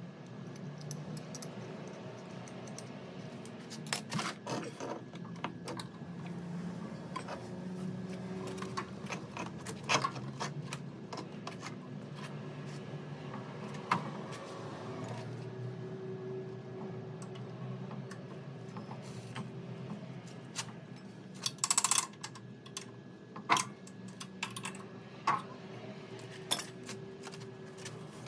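Scattered metallic clinks and knocks of tools and small metal parts being handled, over a steady low hum, with the loudest cluster of knocks a little past two-thirds of the way through.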